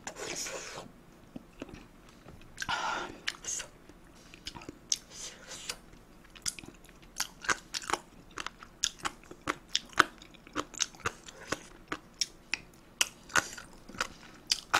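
A person chewing and biting food close to the microphone: a run of short, wet crunches and mouth clicks at an uneven pace, with a couple of longer, hissier sounds near the start.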